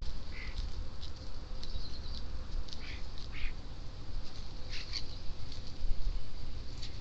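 Backyard birds calling: short, scattered chirps and harsh calls, over a low steady rumble.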